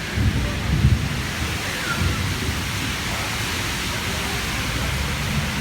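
Torrential rain pouring down in a steady, loud hiss, with low rumbling surges in the first second and again about two seconds in.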